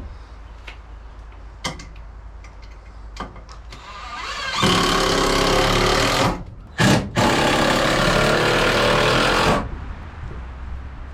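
Cordless drill driving a screw into wood: a few light knocks, then the drill motor spins up and runs in two long pulls with a short blip between, stopping near the end.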